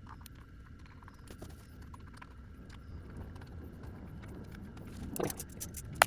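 Light metallic clinks and clicks of hand tools and parts while the oil drain plug is refitted, with one sharp click near the end.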